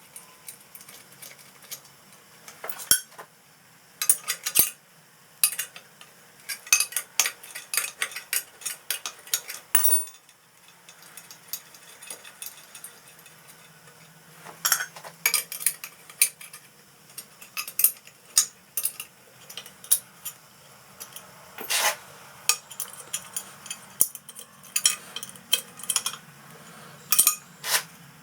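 Small metal parts and hand tools clinking, tapping and rattling on a workbench, in irregular clusters of sharp clicks with short pauses between them.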